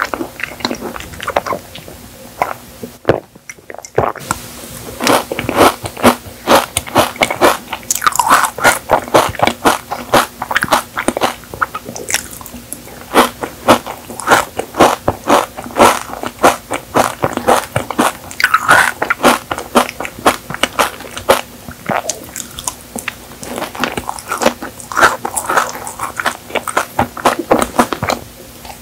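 Close-miked mouth sounds of eating Dubai chocolate cake: a dense run of sharp crackly crunches and wet chewing as the toasted kadaif and pistachio filling break between the teeth. There is a short break about three seconds in.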